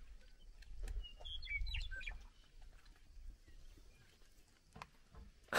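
A few short bird chirps about a second in, over a low rumble, with a sharp click at the very end.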